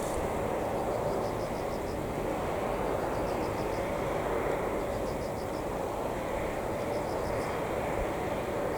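Steady vehicle or machinery noise without change, with a high chirping in quick repeated groups of pulses over it.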